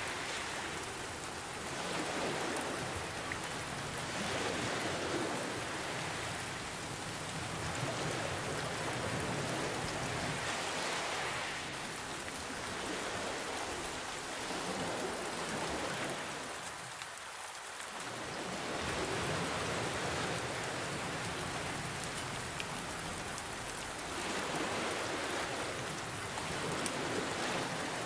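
Steady rain mixed with ocean waves: a dense hiss of rainfall that swells and ebbs every few seconds as waves wash in and draw back.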